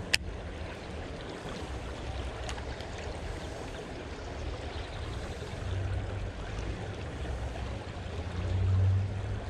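Creek water running steadily, with low rumble from wind on the microphone that swells near the end. There is a sharp click just after the start and a fainter one about two and a half seconds in.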